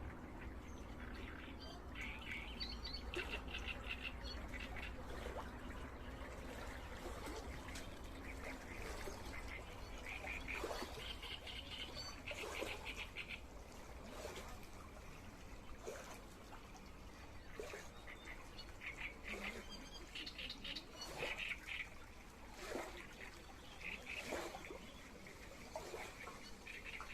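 Birds calling in repeated short bouts of rapid chattering notes, with scattered sharp clicks and a low steady rumble underneath.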